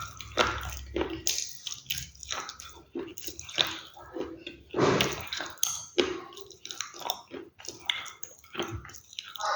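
Close-miked chewing and biting of crunchy food: irregular sharp crunches several times a second, mixed with wet mouth sounds.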